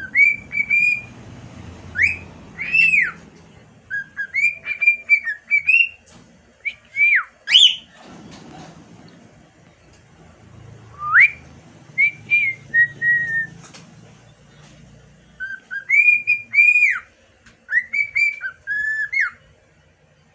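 Six-month-old cockatiel singing an off-key whistled song: phrases of short whistled notes around one pitch with quick sweeps up and down, in several bursts separated by pauses of a second or more.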